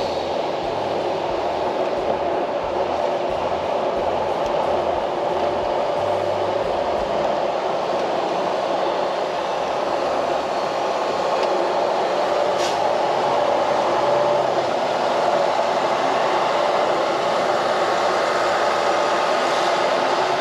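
Steady running noise of a semi-truck heard from inside its cab, the engine and road noise holding at an even level throughout.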